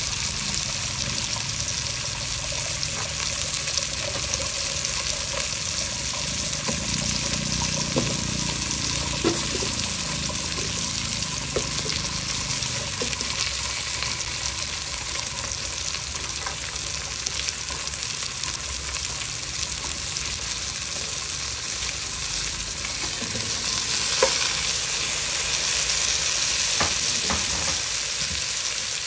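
Vegetables sizzling in a hot stainless steel pot, a steady frying hiss with a few light knocks as they are stirred and more are added. The sizzle grows louder about 24 seconds in.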